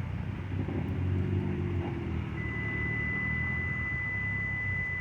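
Cars driving slowly past with engines running, a low steady hum. About halfway in, a thin, steady high-pitched tone starts and holds.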